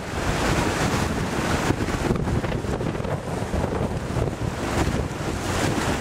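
Strong storm wind buffeting the microphone in gusts, over the wash of surf on the coast.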